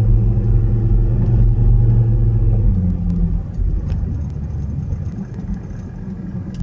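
Low engine rumble from a motor vehicle, steady at first and then fading away from about three seconds in.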